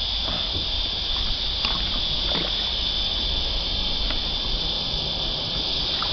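Steady, high-pitched drone of a cicada chorus, with a low rumble and a few faint light knocks beneath it.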